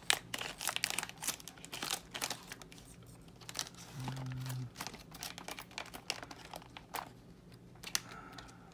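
Scissors snipping and crinkling through plastic packaging as the model kit parts are cut free: a run of short, irregular snips and rustles.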